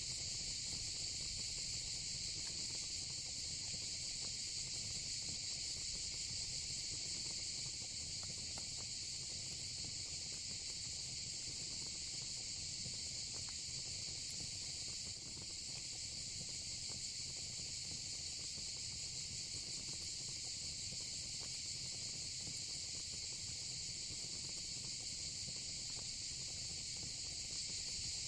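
Steady, continuous high-pitched chorus of night insects, with the low rumble and faint scattered crackles of a wood fire beneath it.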